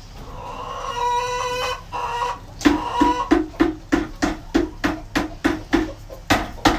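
A hen calling loudly: one drawn-out rising note, then a quick run of short clucks at about three a second.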